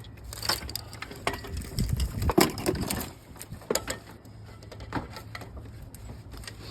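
Hand tools and metal parts working on a car engine: irregular clanks, clicks and scraping, busiest in the first three seconds, over a steady low hum.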